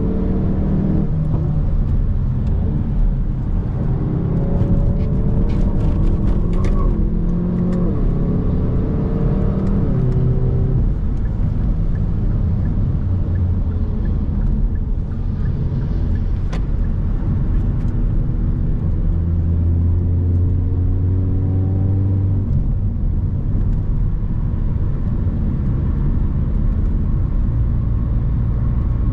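Hyundai i30 N's 2.0-litre turbocharged four-cylinder engine pulling hard at speed, its pitch climbing and dropping through several gear changes in the first ten seconds, then holding a steadier, slowly rising note, over a deep road rumble. A few short clicks sound between about five and seven seconds in.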